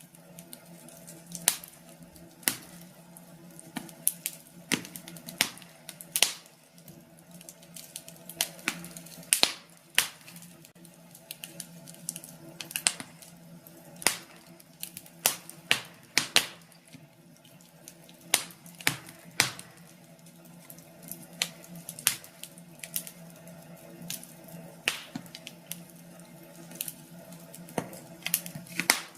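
Wood fire in a fireplace crackling, with irregular sharp pops and snaps several times a second, over a faint steady low hum.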